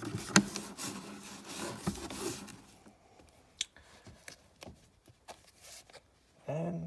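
Paper rustling with a few sharp clicks and knocks, busiest in the first couple of seconds, then only scattered light ticks: paperwork and an owner's manual being handled in a car's glove box.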